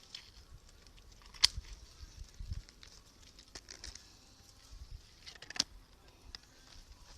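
Sharp clicks: two loud ones about four seconds apart, with fainter clicks between.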